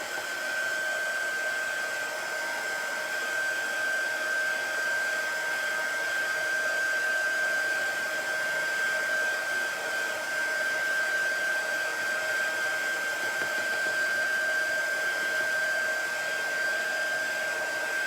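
Handheld electric hair dryer running steadily, a constant high whine over rushing air, drying freshly applied chalk paste.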